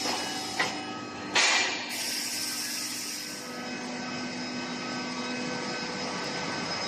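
Steel pipe induction heating line running: a steady mechanical hum with several fixed tones. A sharp click comes about half a second in, and a short loud hiss about a second and a half in.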